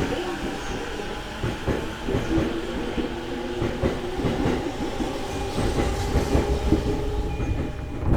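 E233 series electric train running at speed, heard from inside the car: wheels clacking over rail joints over a steady hum of several tones.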